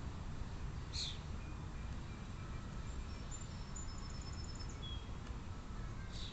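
Steady low background rumble with faint, high small-bird chirps over it, including a short quick trill of repeated notes midway.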